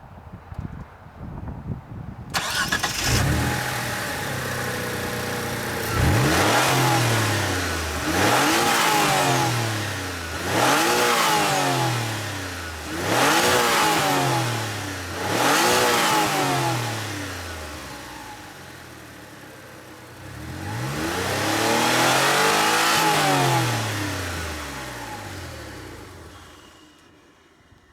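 GTO's engine heard from the open engine bay: it is cranked and starts about two seconds in, then idles. It is blipped up and back down five times in quick succession, then held up in one longer rev before falling back and shutting off near the end.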